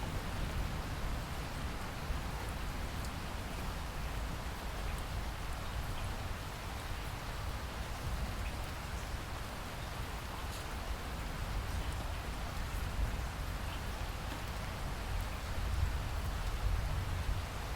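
Steady rainfall, an even hiss of rain with scattered drop ticks over a deep low rumble.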